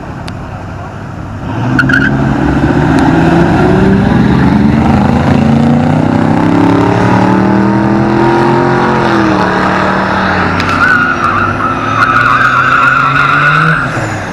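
A truck engine revving hard, its pitch climbing and falling, with tyres squealing from about ten seconds in until it drops off near the end.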